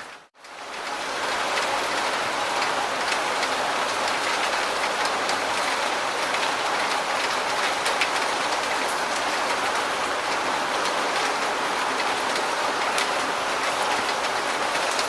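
Steady rain falling on a surface, a dense even hiss with individual drops ticking through it. The sound drops out almost to silence just after the start and fades back in within about a second.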